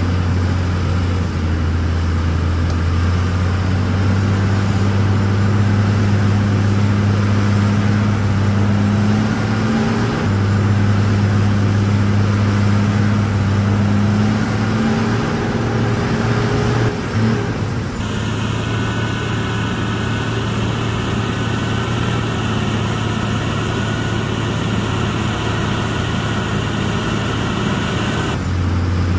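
Heavy diesel engine of earthmoving machinery running steadily with a low, even note. About two-thirds of the way through the sound changes abruptly: the low engine note drops back and a higher hiss comes up, until it switches back shortly before the end.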